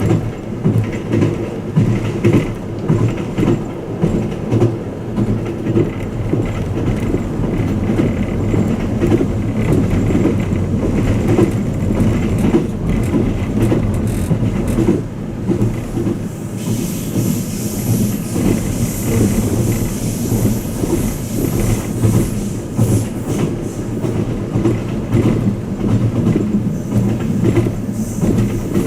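Twilight Express Mizukaze train running, heard from inside a passenger car: a steady low rumble with rhythmic clicking of wheels over rail joints. A high hiss joins about halfway through and lasts several seconds.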